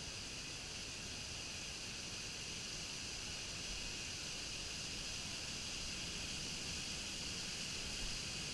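Steady outdoor ambience: an even, high-pitched hiss that does not change.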